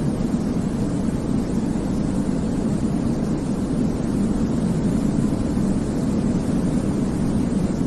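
Steady low-weighted white noise played as a baby sleep aid: a deep, rumbling hiss with little high-end hiss, holding an even level with faint slow swells.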